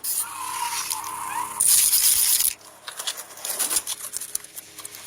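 Clear coat being sprayed onto the car: a loud hiss of spray lasting about a second near the middle, then scattered light clicks.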